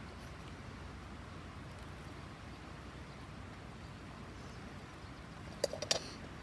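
Faint steady room hum and hiss, with a quick cluster of three or four sharp clicks about a second before the end.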